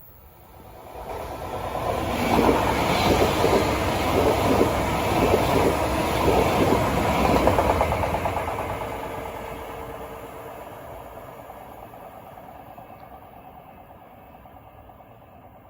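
A train passing at speed: it builds up over a couple of seconds and stays loud for several seconds with a rapid rhythmic clatter over a heavy low rumble, then slowly fades away as it recedes.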